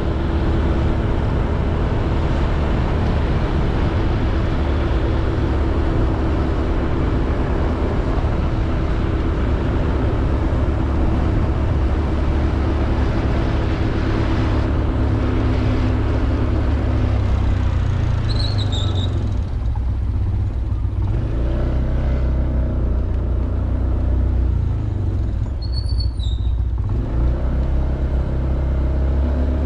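Honda Beat 110cc scooter riding along, its single-cylinder engine running steadily under a dense rush of wind and road noise. The rushing noise thins out twice in the second half. Two brief high chirps, each falling slightly in pitch, come about two-thirds of the way through and again near the end.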